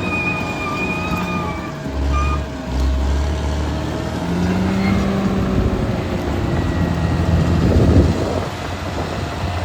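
Caterpillar D6R XL bulldozer's diesel engine working, its pitch and loudness shifting every second or two as the load changes. A high thin squeal sounds over it for the first two seconds.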